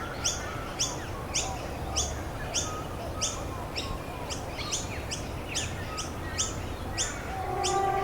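A small songbird chirping over and over, short sharp high notes about twice a second, over a steady low background noise. About seven seconds in, a second, lower bird call with a steady held pitch joins.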